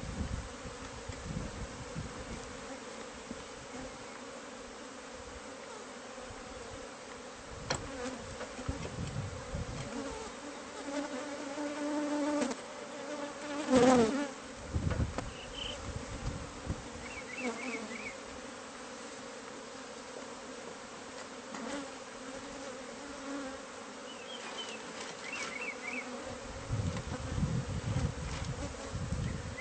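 A disturbed honeybee colony buzzing steadily as its hive is opened up. A louder, wavering buzz swells and fades about halfway through.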